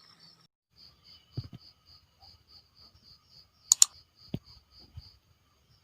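Insect chirping in a faint, high, even pulse of about four chirps a second, with a few scattered clicks and knocks, the sharpest a double click a little before the four-second mark.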